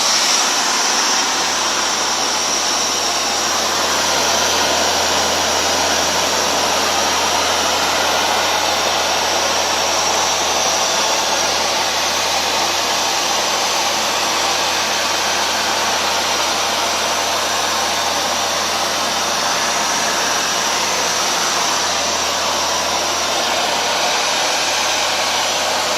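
Hoover Dual Power Max carpet washer running steadily on dry passes, its suction motor drawing water back up out of the carpet.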